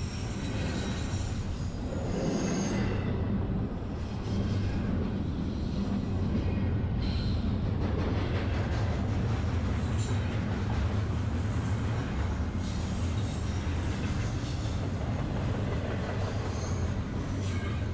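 Long freight train rolling around a tight curve: a steady low rumble, with short high-pitched wheel squeals coming and going every few seconds.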